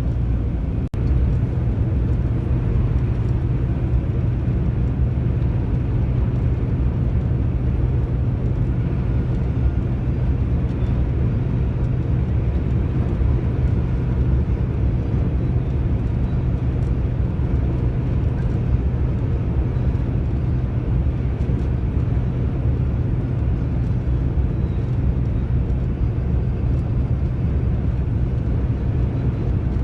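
Steady drone of a truck's engine and road noise, heard from inside the cab while driving, with one sharp click about a second in.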